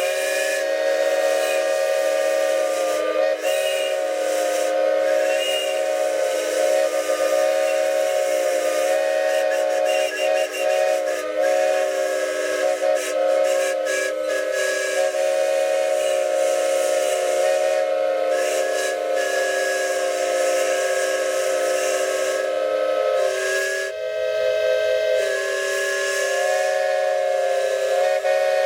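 Several 15-inch gauge steam locomotives blowing their steam whistles all at once, a long chord of different pitches held with steam hiss, the whistles wavering and dropping out briefly here and there. It is a celebratory salute marking the opening of a new turntable.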